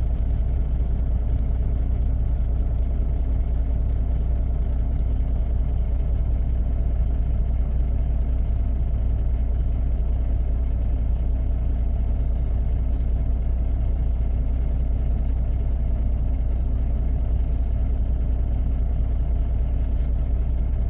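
Semi-truck diesel engine idling steadily, a deep, even low-pitched rumble with no revving.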